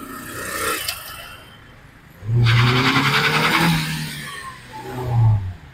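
Toyota Corolla Altis 1.8 petrol car accelerating past close by, its four-cylinder engine loud for about three seconds from a couple of seconds in. A motorcycle goes by in the first second.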